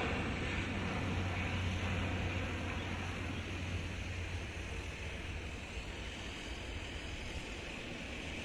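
Twin-turboprop Dash 8-400 airliner's engines and propellers: a broad rush over a low steady drone, slowly fading as the plane climbs away after takeoff.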